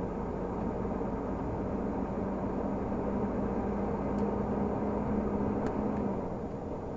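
Renault Magnum 480 truck's diesel engine running while driving, a steady low drone over road noise that builds a little in the middle and eases off near the end.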